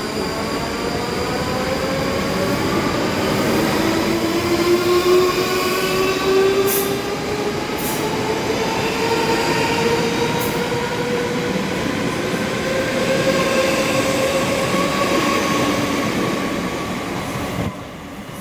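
South Western Railway electric train pulling away close by, its traction motors whining in a tone that rises slowly in pitch as it gathers speed, with a few sharp clicks from the wheels. The sound drops away suddenly near the end as the last carriage clears.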